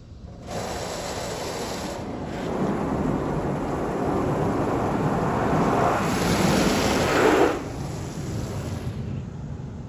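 PDQ Tandem SurfLine touchless car wash machine running: a loud rushing sound of high-pressure water spray (or air) hitting a car starts suddenly, builds, then drops off sharply about three-quarters of the way through.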